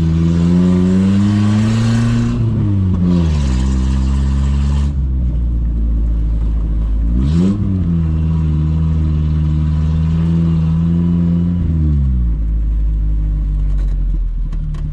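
Suzuki Samurai 4x4's engine pulling off-road, revving up and easing off several times. Its pitch rises for about two seconds, drops around two and a half seconds in and climbs again. A short blip comes about seven and a half seconds in, then it holds steady before falling away near the end. A rushing noise runs through the first five seconds.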